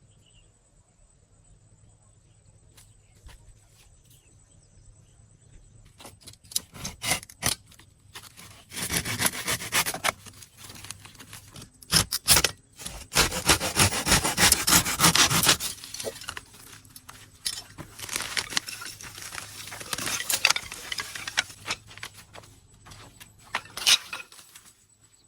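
Quiet for about six seconds, then irregular spells of scraping and rubbing with a few sharp knocks, like materials being worked and handled by hand.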